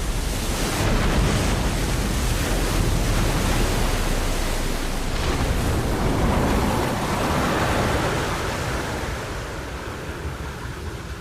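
An airliner sliding across river water just after ditching: a loud, steady rush of water and spray that slowly dies away over the last few seconds.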